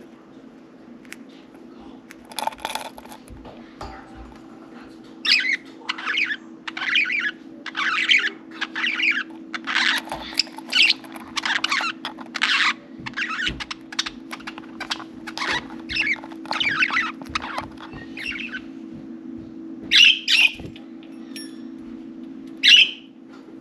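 Budgerigars chattering, a run of short high calls about twice a second through the middle, then a few louder, sharp squawks near the end. A steady low hum runs underneath.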